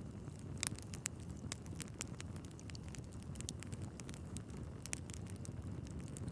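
Wood fire burning in a fireplace: a steady low rumble of flames with irregular sharp crackles and pops from the logs, one louder pop about two-thirds of a second in and another near five seconds.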